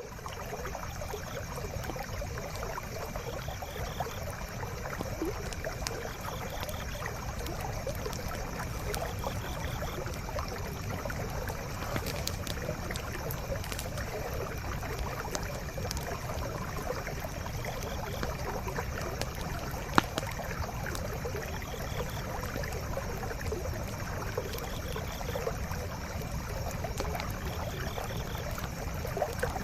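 A forest stream flowing steadily, with a wood campfire crackling over it in scattered small pops and one sharper pop about twenty seconds in.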